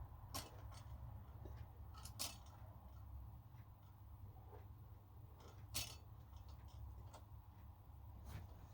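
Faint low hum with a handful of light, sharp clicks scattered through it, the loudest about two seconds in and near six seconds.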